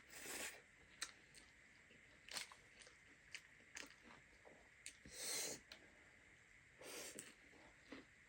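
Close-up eating sounds, faint: wet mouth clicks and chewing, with three short breathy rushes near the start, about five seconds in and about seven seconds in.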